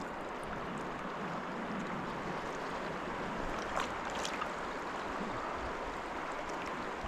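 Steady rush of a flowing trout stream, with a couple of faint clicks about four seconds in.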